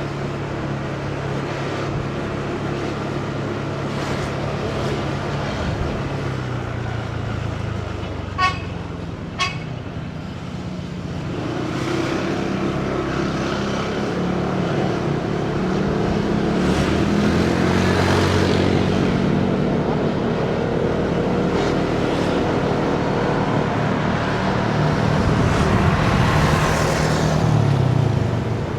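Motorcycle engine running in city traffic, with traffic noise and the engine pitch rising and falling with speed. A vehicle horn toots twice, briefly, about eight and nine seconds in, and the engine and traffic sound grows louder from about eleven seconds on.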